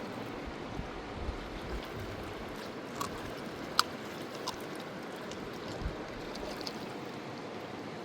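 Steady rushing of a fast-flowing river, with a few short sharp clicks over it, the loudest about four seconds in.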